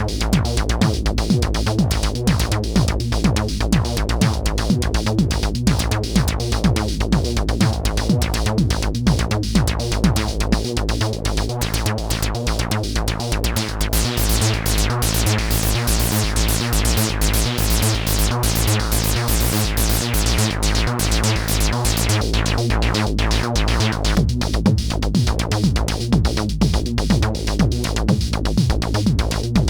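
Live techno from a homemade DIY modular synth, raw with no effects: a steady, driving kick-and-bass beat with synth lines over it. About halfway through, the sound brightens strongly in the highs for several seconds, then closes back down.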